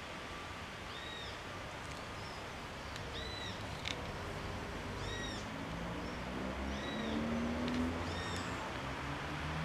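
A bird giving short, arched chirps over and over, one every second or two, over a steady hiss. A low hum builds in beneath it in the second half.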